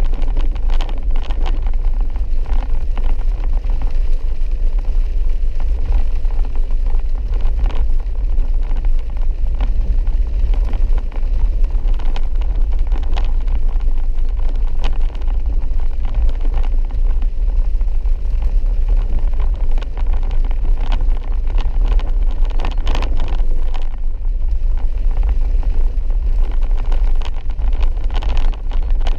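Vehicle driving on a rough dirt road: a steady low rumble of engine and tyres, with frequent irregular knocks and rattles.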